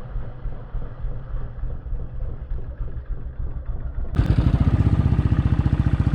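Motorcycle engine running at low speed with steady, even exhaust beats. It becomes suddenly louder and clearer about four seconds in.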